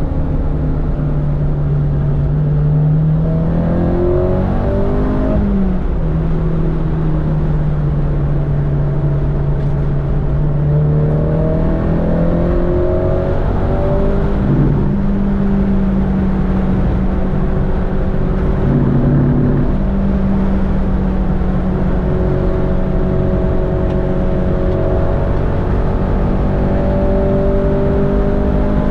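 Honda Civic's K-series four-cylinder engine pulling hard on track, heard from inside the cabin over road and tyre noise. Its pitch holds steady for long stretches and climbs and drops a few times as the revs change through the corners.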